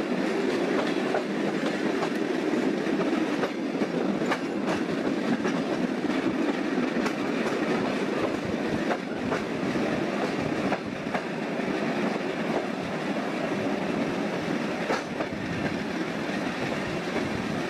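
Passenger train running steadily, heard from aboard the carriage. A constant rumble of wheels on the track, with scattered clicks as the wheels pass over rail joints.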